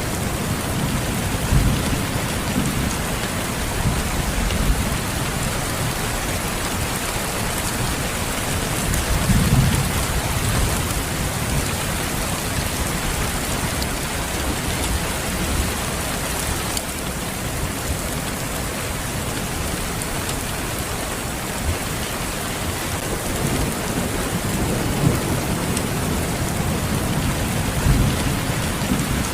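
Steady, even rain hiss, with low rumbles swelling up now and then: about ten seconds in and again near the end.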